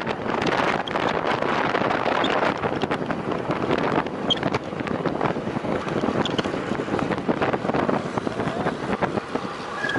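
Wind rushing and buffeting over the microphone of a camera riding along on a time-trial bicycle at race speed: a steady, dense rushing noise with small knocks and flutters.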